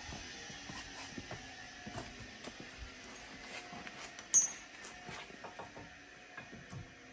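Light metallic clicks and taps of a new brake pad being handled and slid back and forth in its caliper bracket, checking that it moves freely after being trimmed to fit. One sharp, ringing metal clink about four seconds in.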